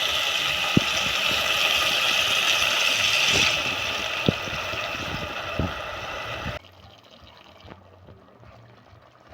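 Running water pouring into a container, a steady splashing rush with a few light knocks, which cuts off abruptly about six and a half seconds in, leaving only faint background.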